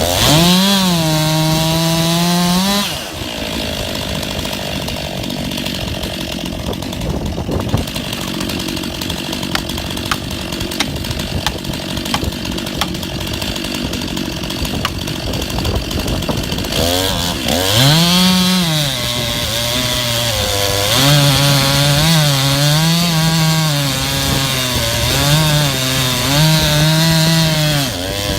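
Chainsaw cutting through the trunk of a large ash tree during felling, the engine revving up and down as it works in the cut. For a long stretch in the middle the engine note gives way to a rougher, steadier noise.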